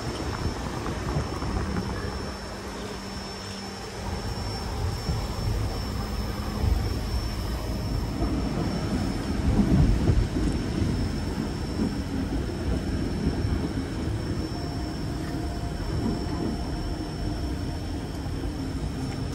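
Mountain railway train running: a steady low rumble from the railcar and wheels on the track, swelling for a couple of seconds about halfway through, with wind buffeting the microphone on the open platform.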